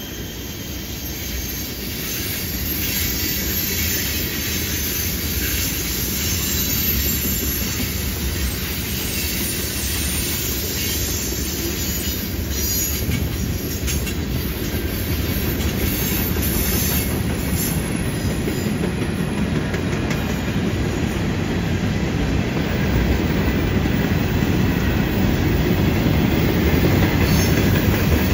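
Freight cars of a long mixed freight train rolling past on a curve: a steady rumble and clatter of steel wheels on rail, with some wheel squeal from the curve. It grows louder toward the end.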